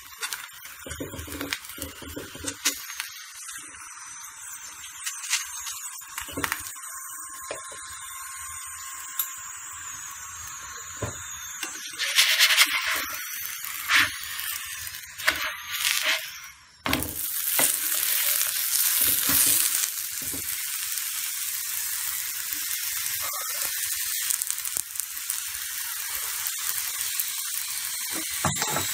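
Stuffed paratha frying in oil on a nonstick tawa, sizzling steadily, with scattered scrapes and taps of a steel spoon against the pan. The sizzle gets louder about two-thirds of the way through.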